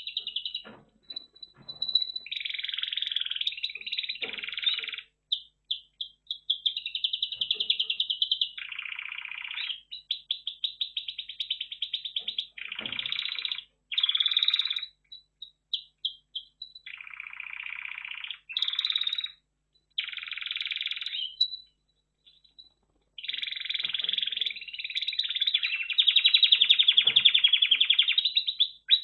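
Red factor canary singing: a long run of rapid rolling trills and warbled phrases, broken by short pauses.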